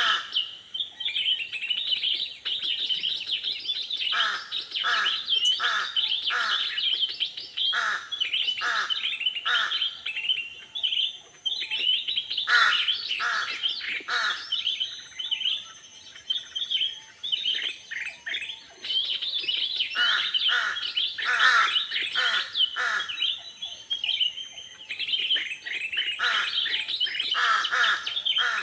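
Birds chirping and calling continuously, many quick repeated notes overlapping, with louder bouts every second or two.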